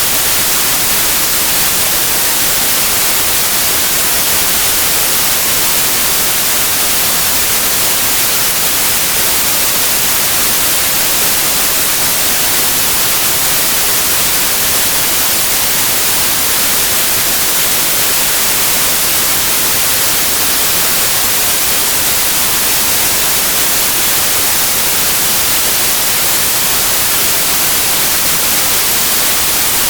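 Steady white noise, an even hiss with no tones, rhythm or changes, strongest in the high frequencies.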